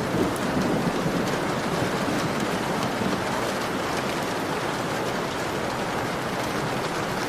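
Heavy rain pattering steadily on a window, with many small drop ticks through an even hiss. A low rumble fades out over about the first second.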